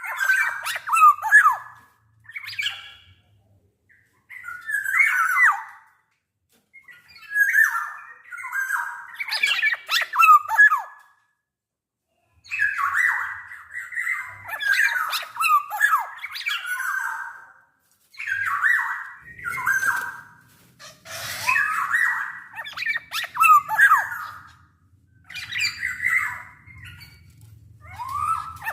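Black-naped oriole (kepodang) calling loudly in bursts of fluty, gliding whistles mixed with harsh, nasal squawking notes. The phrases are split by short pauses at first and come almost without a break in the second half.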